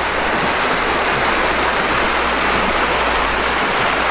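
Creek water rushing steadily, a loud even wash of flowing water.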